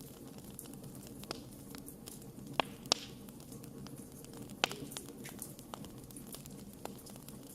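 Wood campfire burning with a steady low rumble and hiss, and scattered sharp crackles and pops; the loudest pops come a little before halfway and just past halfway.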